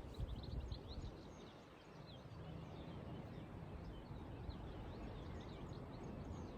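Small birds chirping faintly, many short quick calls, over a low outdoor rumble.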